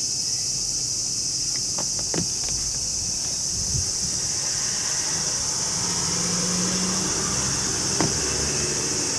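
Steady high-pitched chorus of insects, with a few faint clicks and knocks from handling, the clearest near the end, and a faint low hum in the middle.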